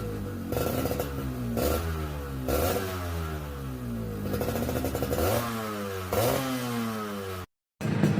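Yamaha RX-King's single-cylinder two-stroke engine revved in repeated throttle blips through a stock-style silenced exhaust, the pitch climbing and dropping back each time. The sound cuts off abruptly near the end.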